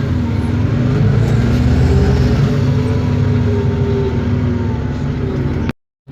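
Isobus City 1200 city bus under way: its MAN D0836 six-cylinder diesel runs steadily under a whine from the ZF Ecomat 6HP504C automatic gearbox and differential. The sound stops abruptly near the end.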